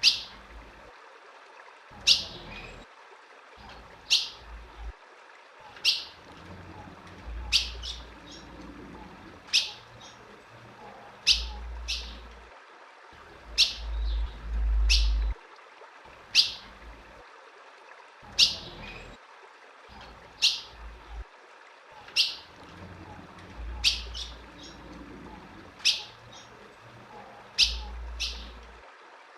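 Female ultramarine grosbeak (azulão) giving a short, sharp chip call about every two seconds, each note dropping quickly in pitch. This is the female's call that keepers play to stir up male azulões.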